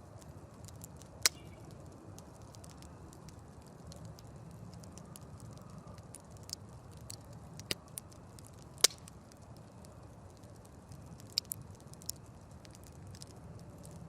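Wood campfire burning with a low steady rush and scattered sharp crackles and pops, the loudest about a second in and just under nine seconds in.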